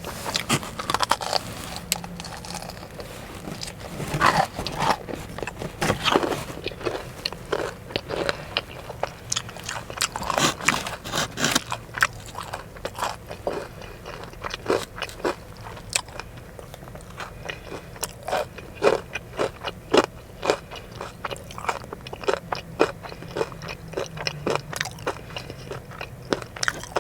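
Close-up eating sounds: biting into and chewing crispy breaded chicken tenders, a dense run of sharp crunches and crackles.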